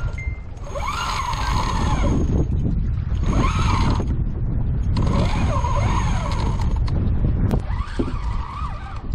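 Fishing reel whining in four short spurts, its pitch wavering up and down, over steady wind noise on the microphone.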